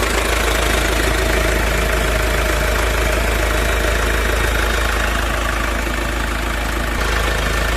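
Mahindra Scorpio's diesel engine idling steadily just after starting, with an even diesel clatter.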